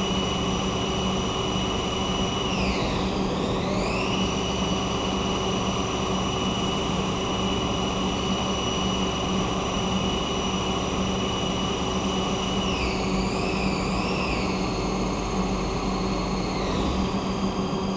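Haas CNC lathe taking a turning cut with coolant on: a steady machine hum and hiss under a high spindle-drive whine that dips in pitch and comes back about three seconds in, and dips again with a wavering pitch around thirteen to fifteen seconds. The machinist calls it a good cut.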